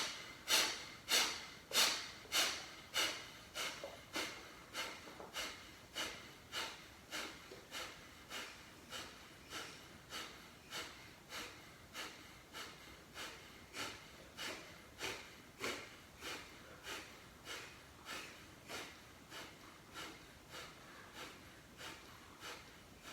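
Kapalbhati pranayama breathing: a steady train of short, forceful exhalations through the nose, each a sharp puff made by pumping the stomach inward, at about two a second. The puffs start loud and grow fainter.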